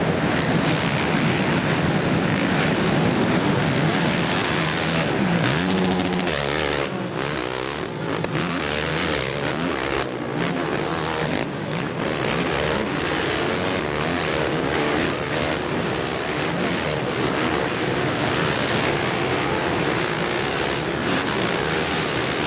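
Four-stroke motocross bike engines running on the track, rising and falling in pitch as they rev.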